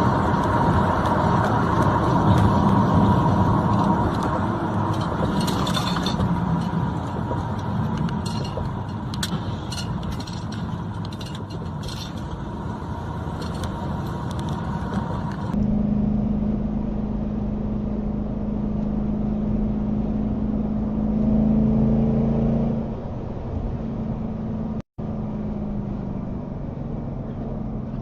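Road vehicle noise: a car engine running with road rumble, a steady high whine over it in the first half. Partway through the sound changes abruptly to a steadier, deeper engine hum.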